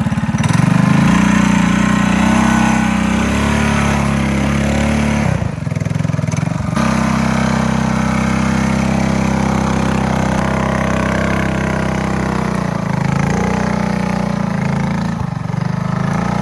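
Mini bike's small engine running steadily under throttle, dropping off briefly about five and a half seconds in and picking back up about a second later.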